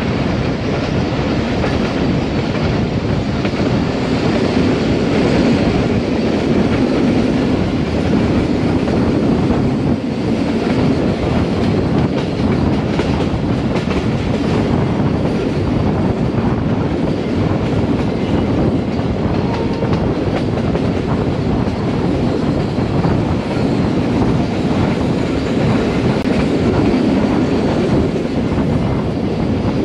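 Pakistan Railways express passenger train running at speed, heard close beside a moving coach: a steady rumble of wheels on the rails with a clickety-clack over the rail joints.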